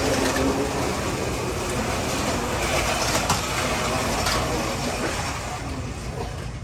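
Carrera 1/32 slot-car race trucks running on the track: a steady whir of their small electric motors mixed with the rattle of wheels and guides in the slots.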